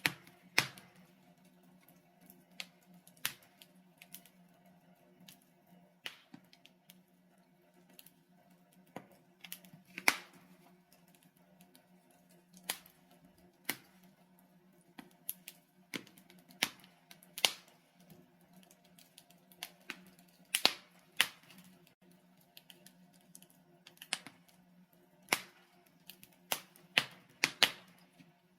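Wood logs burning in a fireplace, crackling with irregular sharp pops and snaps, a few much louder than the rest, over a faint steady low hum.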